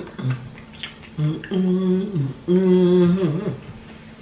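A woman humming two long, steady "mmm" notes with her mouth closed, each dropping in pitch at its end, while eating.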